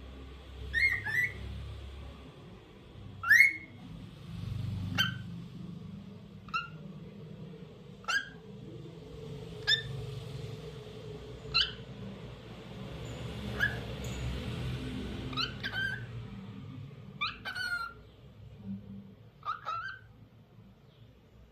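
Lutino cockatiel giving short, rising whistled chirps, about one every second and a half, some in quick pairs.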